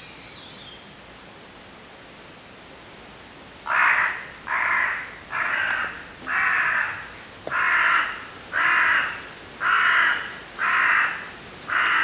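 A bird giving a series of about nine loud, harsh calls, roughly one a second, starting about four seconds in.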